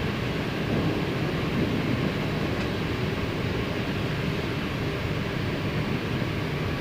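Steady flight-deck noise of an Airbus A319 taxiing with both engines at idle: an even rumble and hiss.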